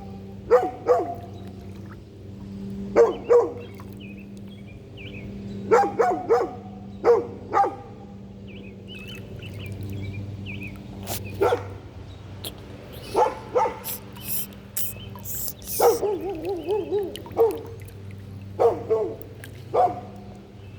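A dog barking repeatedly, often two barks close together, with a longer wavering bark about two-thirds of the way in.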